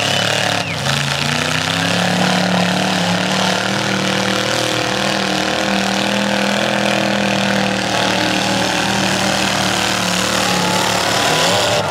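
Demolition derby car engines running, a steady loud drone holding roughly one pitch.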